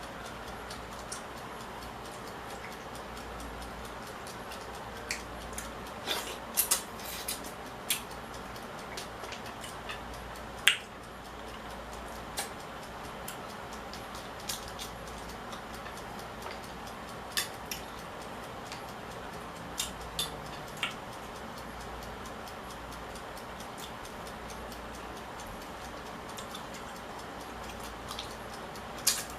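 Scattered sharp clicks and clinks of someone eating, irregular and a few seconds apart, over a steady low hiss. The loudest click comes about a third of the way in.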